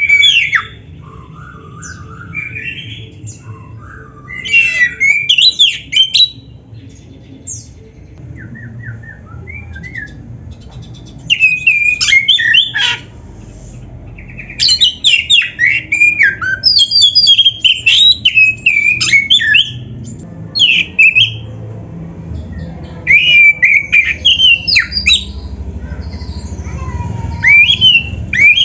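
Oriental magpie-robin (kacer) singing in loud phrases of rapid, varied chattering notes, separated by short pauses. A lower warbling run comes in the first few seconds.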